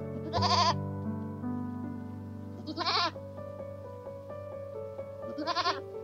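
Goats bleating three times, each a short wavering call about half a second long, over soft piano background music.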